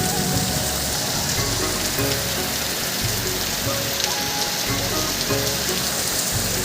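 Heavy rain pouring steadily on surfaces, a dense even hiss.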